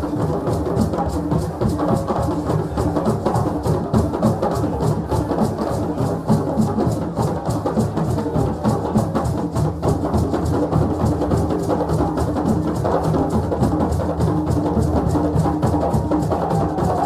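Drums played together in a fast, dense rhythm that keeps on without a break.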